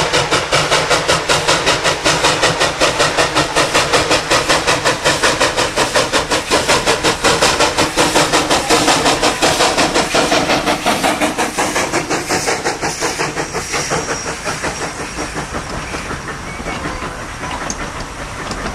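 Narrow-gauge steam locomotive working hard, its exhaust chuffing in a rapid, even beat of about four or five a second. The chuffs grow quieter and less distinct after about ten seconds as the train moves away.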